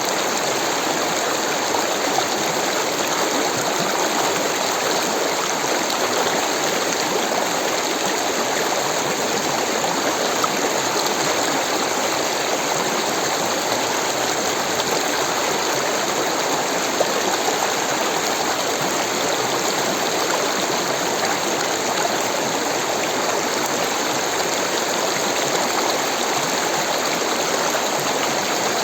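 Rushing water running steadily, an even hiss with no breaks or changes.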